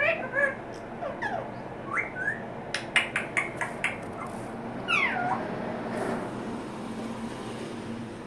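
Parrot vocalising: a few short calls that slide up and down in pitch, then a quick run of sharp clicks, then one longer call that falls in pitch.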